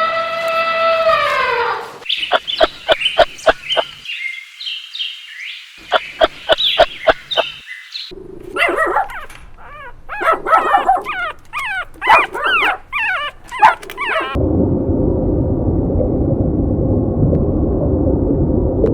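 A dog yipping and whimpering in many short, high-pitched calls. A single pitched call falls away at the start, and a steady rough noise takes over for the last few seconds.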